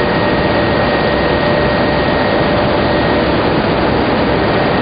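Tobacco-lamina flash dryer and its plant machinery running steadily: a loud, even rush of fan and airflow noise with a faint steady whine.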